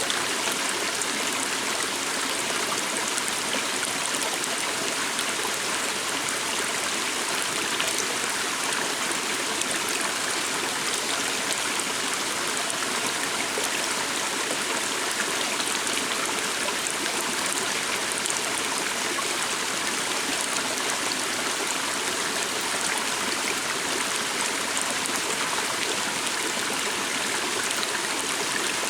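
Stream water flowing and rushing steadily, an even splashing hiss with no change in level.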